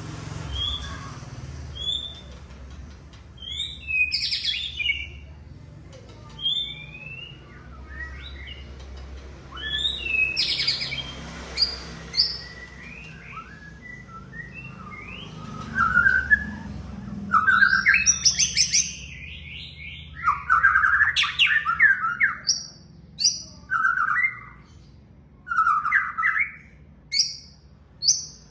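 White-rumped shama (murai batu) singing a varied string of short whistled notes, chirps and quick rattling phrases, sparse at first and denser and louder from about halfway, over a low hum that fades out.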